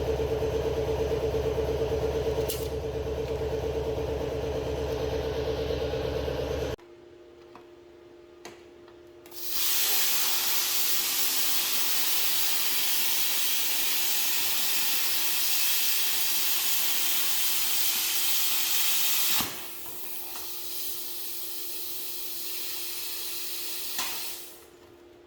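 Background music for the first several seconds. Then a loud steady hiss sets in and runs about ten seconds, drops to a quieter hiss, and stops shortly before the end.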